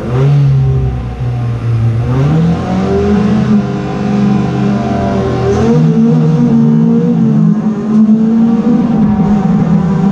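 Several race car engines revving hard and accelerating, their pitch climbing in steps twice.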